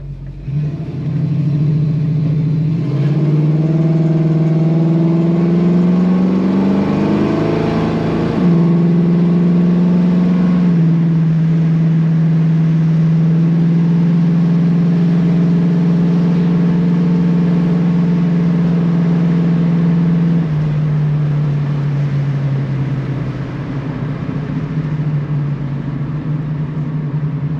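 1964½ Ford Mustang's F-code 260 V8 pulling under acceleration, its revs climbing for several seconds, then easing back and holding a steady cruise before dropping off about twenty seconds in.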